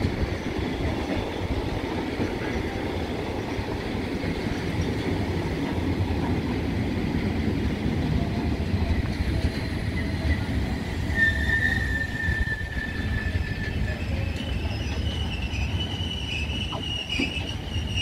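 Intermodal freight train of pocket wagons carrying lorry trailers rolling past at steady speed, with a continuous rumble of wheels on rails. A high metallic squeal sets in about eleven seconds in and shifts to a higher pitch near the end.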